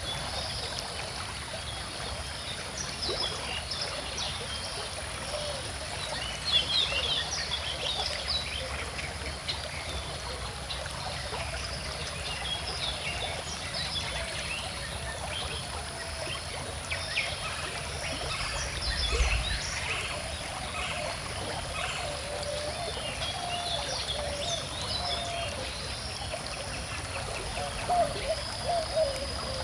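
A calm river or stream flowing steadily, with many birds chirping and singing over it throughout.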